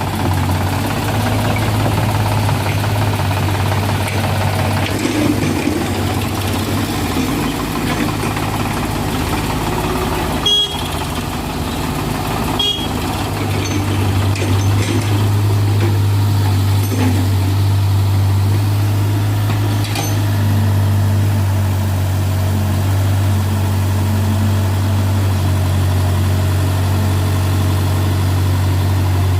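Sonalika DI-35 RX tractor's diesel engine running steadily with a low drone. A few brief sharp knocks come through around the middle.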